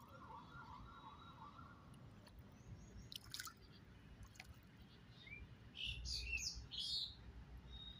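Faint outdoor ambience: a distant warbling siren that fades out about two seconds in, then a few short bird chirps a little past the middle, over a low rumble.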